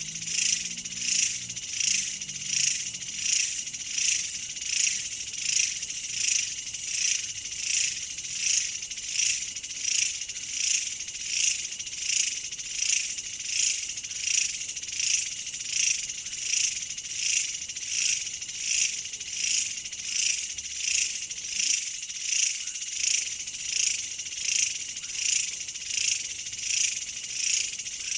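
Insects singing in a steady high-pitched chorus that swells and fades evenly, about three pulses every two seconds.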